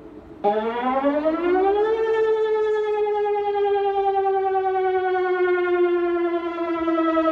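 A siren sounding: it starts suddenly about half a second in, climbs in pitch for about a second and a half, then holds and sinks slowly in pitch.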